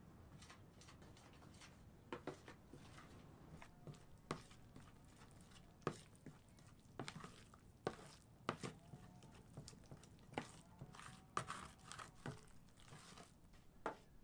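Faint, irregular clicks and short rustling sounds.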